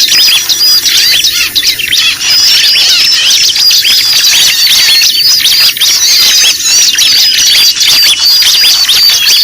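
Loud, dense chorus of many small birds chirping and squeaking at once, a noisy mixed-bird lure track of the kind played to draw small birds in.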